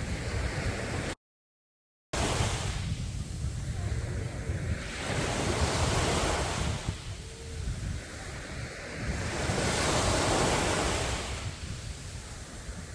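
Sea waves breaking and washing up on a beach, swelling and falling back every few seconds, with wind rumbling on the microphone. The sound cuts out completely for about a second near the start.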